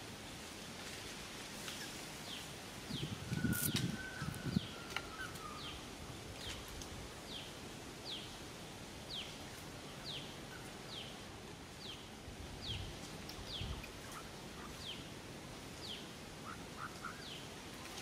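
A bird repeating a short, high, falling chirp a bit more than once a second. About three to four seconds in, a brief low rustling bump is the loudest sound.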